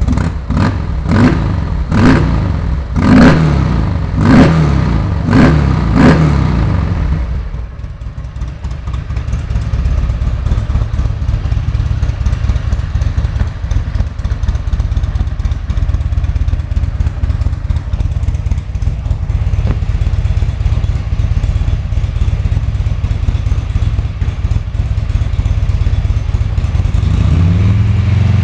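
Buell XB12's air-cooled V-twin blipped up in about six quick revs, roughly one a second, then dropping back to a steady idle; near the end the engine begins to rise again.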